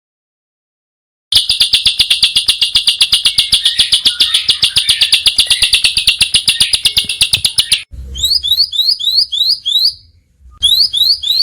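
A small songbird singing: after about a second of silence comes a rapid, harsh train of sharp chattering notes, about ten a second, for some six seconds. It then switches to a series of quick rising whistled notes, about four a second, broken once by a short pause.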